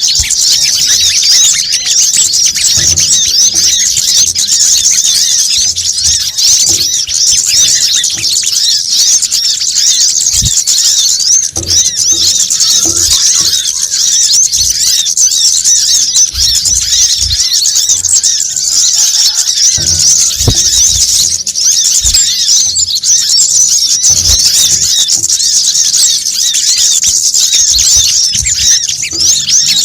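Dense, unbroken high-pitched chirping and twittering of many small birds, calls overlapping rapidly: a busy lure-call recording of sunbirds and similar small songbirds, used to draw them in for trapping.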